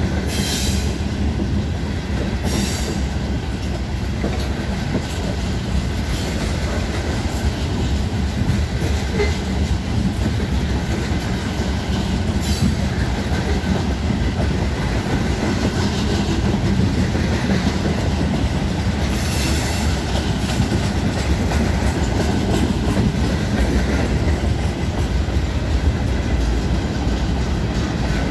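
Norfolk Southern freight train's cars rolling past close by: a steady rumble and clatter of steel wheels on the rails, with brief high-pitched wheel squeals a few times.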